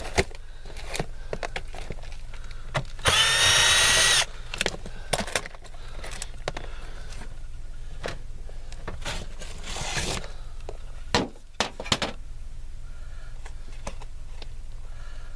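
A power drill runs in one burst of about a second, a few seconds in. Scattered clicks and knocks of tool handling follow.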